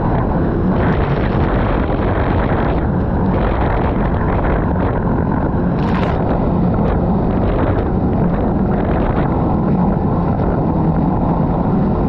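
Jet ski engine running steadily under way, with heavy wind rushing over the microphone. A brief hiss rises about six seconds in.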